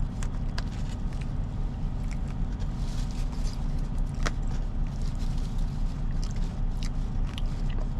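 Steady low rumble of an idling diesel truck engine, with scattered light clicks and taps over it.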